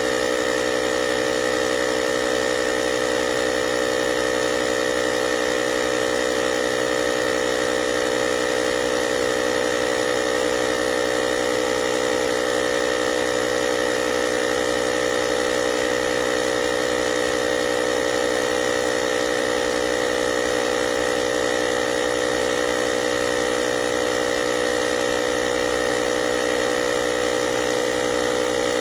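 Cordless portable air compressor running steadily with a constant motor-and-pump hum.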